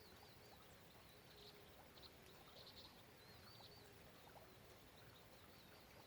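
Very faint outdoor rain ambience: a soft steady hiss with a few scattered drips. A thin, high chirping call repeats over it, from a small bird or insect.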